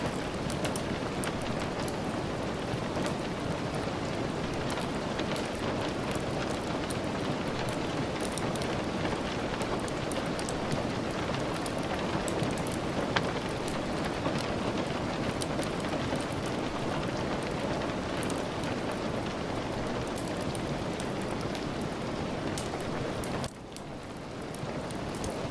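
Steady rain falling, with scattered small sharp clicks and pops from a crackling wood fire. Near the end the sound suddenly drops away and then swells back in over a couple of seconds.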